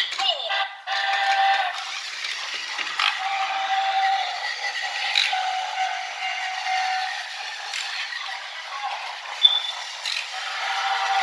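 Tomy Plarail toy set's electronic sound effects playing a steam-train recording through a small speaker: several held whistle tones over a steady rushing train noise.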